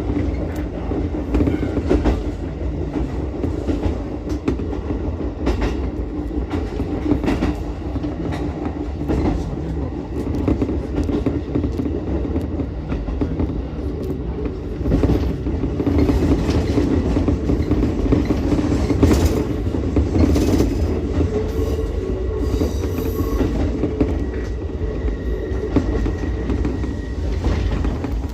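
Ichibata Electric Railway 7000-series electric railcar running at speed, heard from inside: a steady low rumble of wheels on rail, broken by frequent short clicks as the wheels pass over rail joints.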